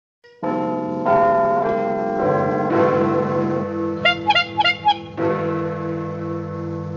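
Synthesized logo jingle that starts about half a second in: layered bell-like tones build into a chord, a quick run of chiming glides comes about four seconds in, and then a held chord rings on with a pulsing middle note.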